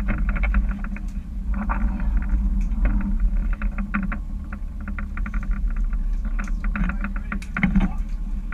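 Steady low drone of a boat's engine, with irregular clicks and rattles over it.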